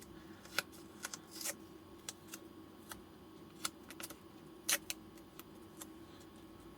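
Light, irregular clicks and taps with short rustles as small offcuts of insulating material are handled and pressed onto a battery cell pack; the sharpest tap comes about two-thirds through. A faint steady hum runs underneath.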